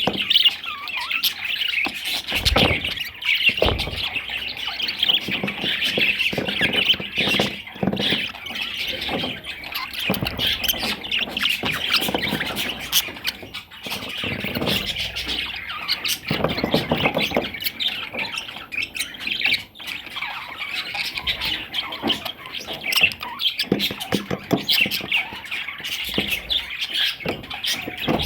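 Budgerigar warbling and chattering without a break, with scattered sharp clicks through it.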